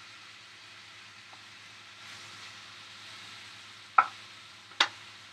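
Food sizzling steadily in a frying pan, with two sharp clacks of a utensil against the pan about four and five seconds in.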